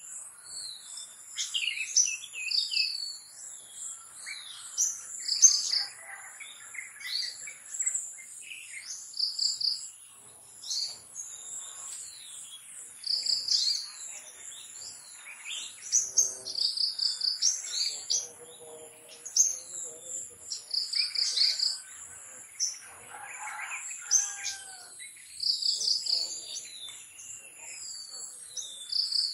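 Long-tailed shrike (cendet) singing a varied song of short, high phrases, with a similar trilled phrase coming back every few seconds. A steady high insect buzz runs underneath.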